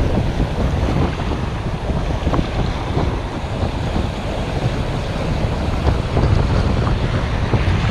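Wind buffeting the microphone with a steady low rumble, over waves washing on the shore.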